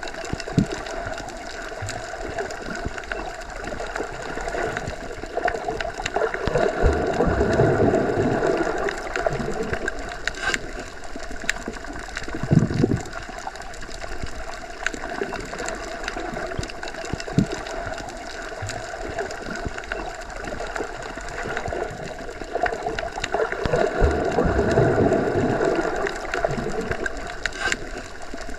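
Underwater ambience as heard with the head submerged: a steady muffled rush of water with slow swells every several seconds, and scattered faint clicks and low thumps.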